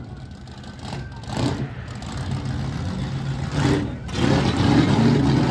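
A parade truck's engine running, then revved so that it grows louder about four seconds in.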